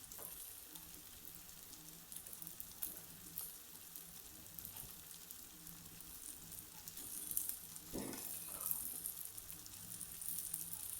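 Onion mixture and balti spice paste frying in a pan over high heat, a soft steady sizzle, with a brief knock or scrape of the stirring utensil about eight seconds in.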